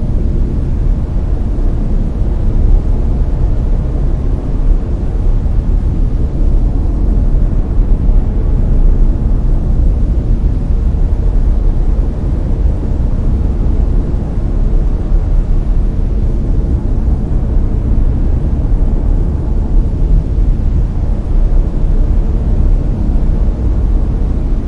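Layered brown noise: a loud, steady, deep rushing noise with most of its weight in the low end, thinning toward the top, unchanging throughout.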